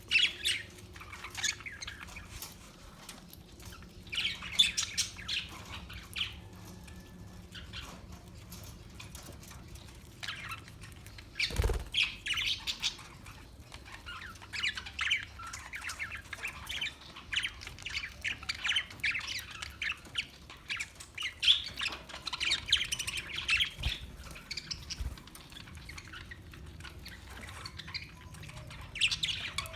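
Parakeets chirping and squawking in short, sharp bursts that come in bunches, with one loud knock about twelve seconds in.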